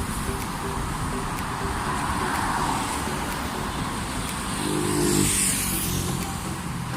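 Road traffic on a busy main road: a steady rumble of passing vehicles, with one engine passing close about five seconds in.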